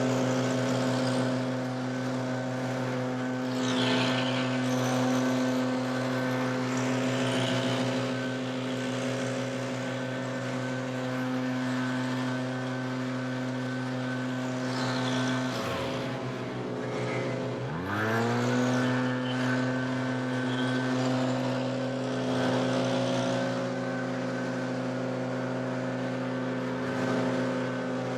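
Two-stroke backpack leaf blower running at full throttle, a steady engine note over the rush of air. The throttle is let off twice, at about 15 and 18 seconds in, and the engine drops in pitch, then revs back up.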